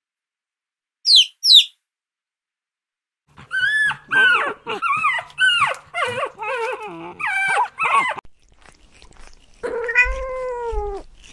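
Baby chick peeping twice, two short high falling chirps about a second in. Then a puppy whining in a run of about a dozen short, high, wavering cries. Near the end a kitten gives one long meow that drops in pitch as it ends.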